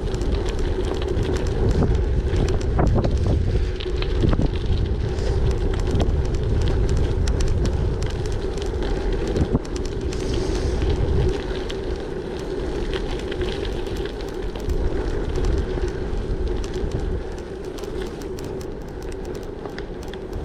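Gravel bike riding: tyres rolling with a steady hum and scattered small ticks, and wind buffeting the microphone, heavier for the first half and easing about halfway through.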